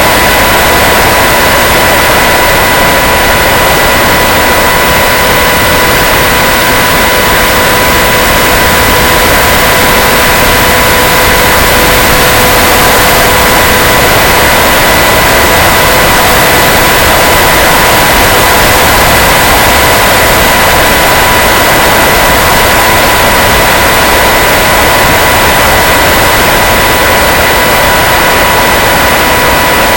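Onboard audio from an electric RC plane in flight: a loud, steady hiss with a constant whine that stays at the same pitch throughout.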